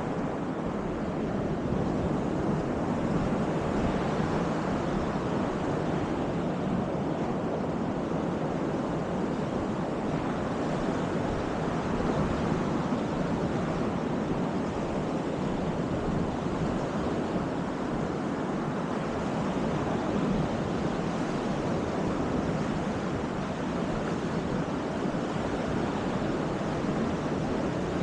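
Baltic Sea surf breaking steadily on the beach, a continuous wash that swells and eases slightly, with some wind.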